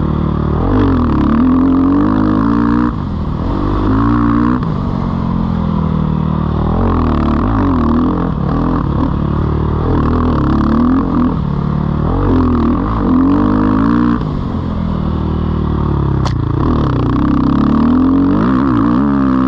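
2019 Sherco 450 SEF four-stroke single-cylinder dirt bike engine being ridden hard, its revs rising and falling over and over as the throttle opens and closes through the turns.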